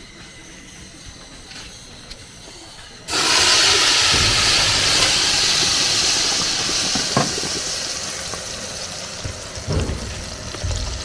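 Food going into hot oil in a cooking pot: a loud sizzle starts suddenly about three seconds in and slowly dies down as it fries, with a few knocks.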